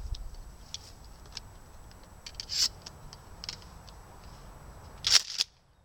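Handling noise: scattered small clicks and scrapes, with a louder rustle about five seconds in, after which the sound cuts out abruptly.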